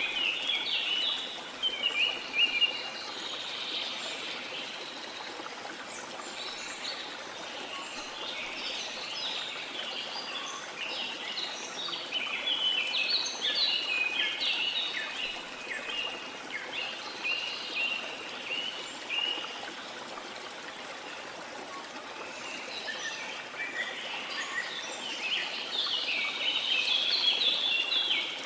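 Many birds chirping in quick, overlapping runs over a steady rush of falling water from a waterfall. The birdsong thins out for a few seconds past the middle and builds again near the end.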